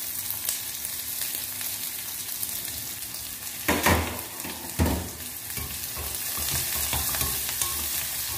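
Chopped onion, dried red chillies and curry leaves sizzling in hot sesame oil in a steel kadai over a gas flame, a steady hiss. There are two louder knocks a second apart about halfway through, and the pan is being stirred near the end.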